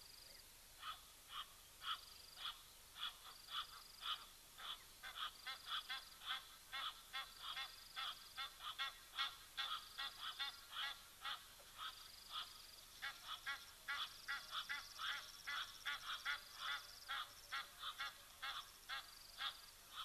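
Birds giving a fast series of short, repeated calls, about two to three a second and more crowded in the second half, with a faint high trill coming and going.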